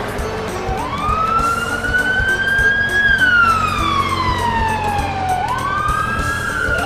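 Emergency-vehicle siren sound effect: a slow wail that starts about a second in, climbs, falls away steadily and then begins to climb again, over a low steady hum.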